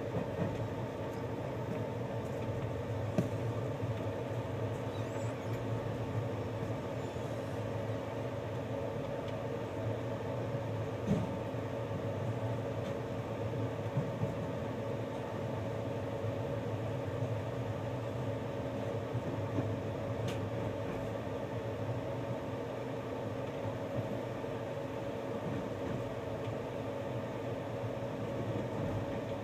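Steady running noise of a moving passenger train heard inside the carriage, with a few short knocks.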